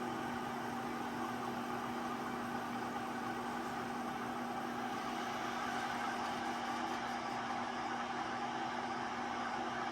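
Metal lathe running steadily with an even hum, turning a large turbocharger flange cone. The part is wrapped in Sylomer to damp its ringing and chatter during the cut.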